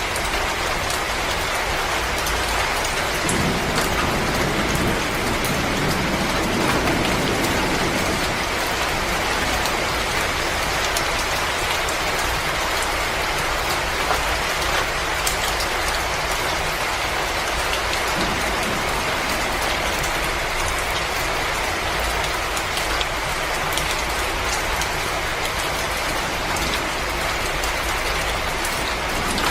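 Wood fire crackling in a fireplace: a steady hiss dotted with frequent small pops and snaps. A low rushing sound swells up between about three and eight seconds in.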